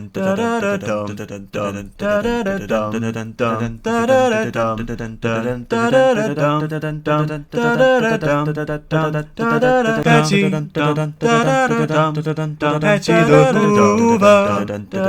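A man singing a comic song, his voice over a steady held backing chord.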